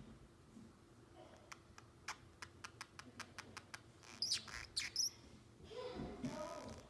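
Pacific parrotlet vocalizing: a quick run of sharp clicks, about four a second, then a few high sweeping chirps, and a short, lower mumbling warble near the end.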